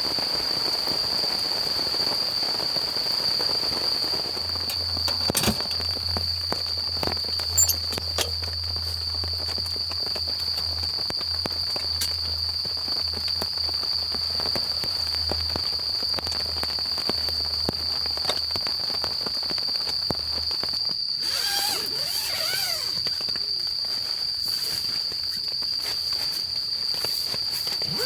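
Campfire wood crackling with a few sharp pops, over a steady high-pitched insect trill.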